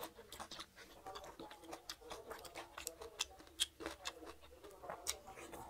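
Close-up eating sounds of a mouthful of rice and fish curry eaten by hand: wet chewing and lip smacking, a run of sharp irregular clicks several times a second.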